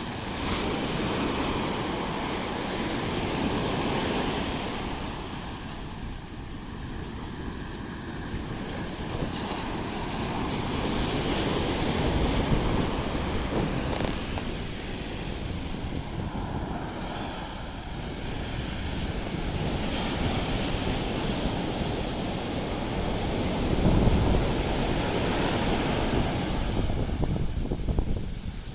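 Sea waves breaking and washing up a beach, the surf swelling and easing every several seconds, with wind buffeting the microphone.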